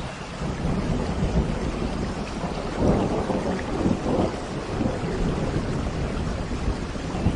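Steady rain with a long, deep roll of thunder that builds about half a second in and peaks around the middle before easing.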